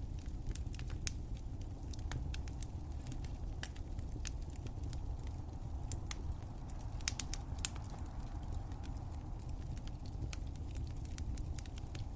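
Fireplace fire crackling: irregular sharp pops and snaps, a few louder ones about seven seconds in, over a steady low rush of burning.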